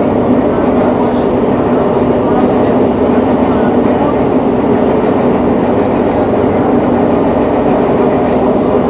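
Madrid Metro series 8000 train running between stations, heard from inside the carriage: a loud, steady rumble of wheels on rail and traction motors.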